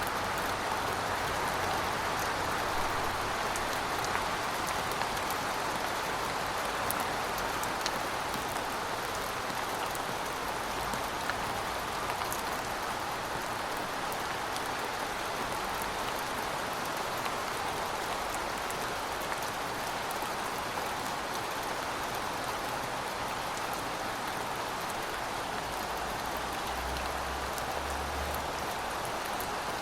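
Steady rain falling, an even hiss with scattered drops ticking, and a brief low rumble near the end.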